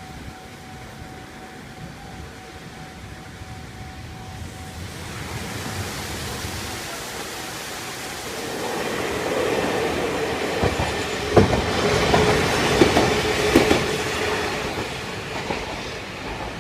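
Eizan Electric Railway train passing over a level crossing. It builds up, is loudest about two-thirds of the way through with several wheel clacks over the rail joints, then fades.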